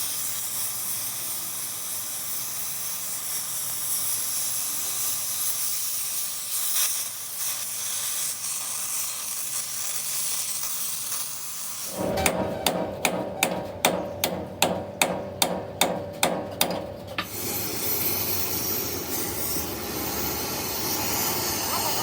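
Metal being struck with a hammer: a quick run of about a dozen ringing blows, about three a second, over a steady hiss that runs on after the blows stop.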